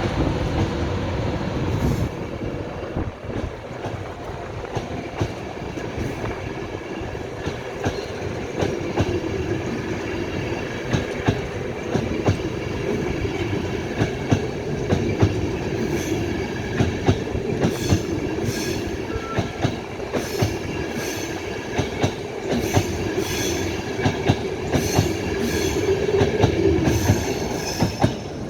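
A train running through on the rails, with a steady rumble and its wheels clicking over rail joints and pointwork. In the second half the clicks come about once a second, often in quick pairs as each bogie's wheelsets cross.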